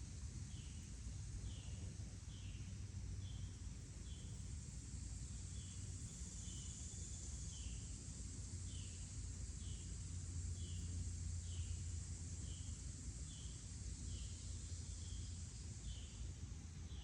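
Natural outdoor ambience: short chirps repeating about every three-quarters of a second over a steady high insect drone, with a low rumble underneath.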